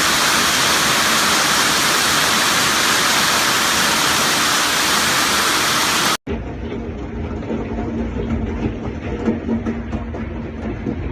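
Dense, steady roar of heavy hail and rain falling. About six seconds in it cuts off abruptly and is replaced by a quieter low rumble with a faint steady hum.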